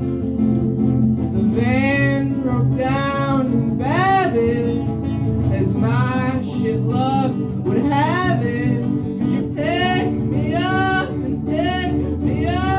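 Live band music in a country style: guitar and bass holding a steady backing, with a wavering, sliding melody line coming in over it about a second and a half in.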